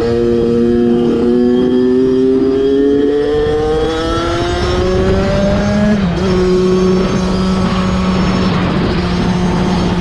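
Kawasaki KX 65 two-stroke dirt bike engine at full throttle in top gear on stock gearing. Its pitch climbs slowly for about six seconds as it revs out with no higher gear left, then drops suddenly and holds steady.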